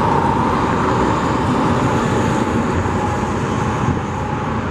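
Steady rumble of motor vehicles, a little louder at first and easing off near the end.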